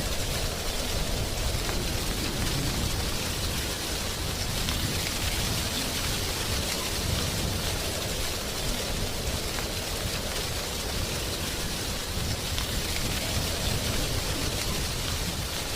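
Steady wind blowing through a tree's drying leaves: a continuous, even rustling hiss with a low rumble underneath.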